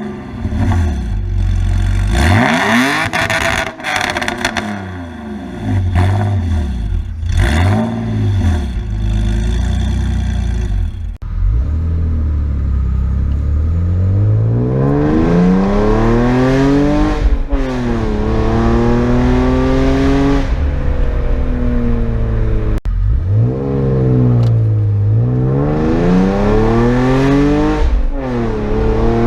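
BMW E46 with headers and a custom muffler- and resonator-delete exhaust. It is revved in quick blips with sharp crackling pops at first. Then the engine pulls hard in long rising sweeps that drop back and climb again, as at gear changes.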